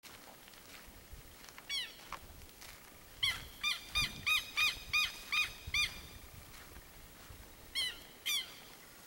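A bird calling: one short call, then a run of about eight loud, arched notes at roughly three a second in the middle, and two more calls near the end.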